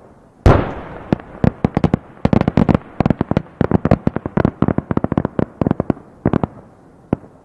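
Aerial firework shell bursting with one loud boom, followed by dozens of sharp bangs and cracks in quick clusters that thin out, with a last single bang near the end.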